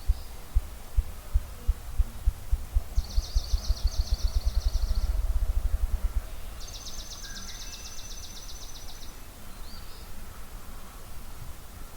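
Ruffed grouse drumming: low, hollow thumps that speed up into a rapid roll and stop about six seconds in. Two high, fast trills from a small songbird sound over the end of the drumming and just after it.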